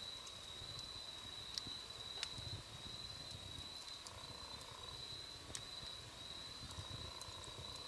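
Wood campfire crackling softly, with a few sharp pops, over a low rumble of the flames. A steady high-pitched whine runs underneath.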